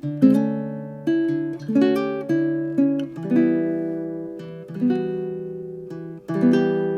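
Koa-bodied Kanileʻa D-1 Baritone Pro ʻukulele played solo, a series of chords each ringing out and dying away before the next one is struck.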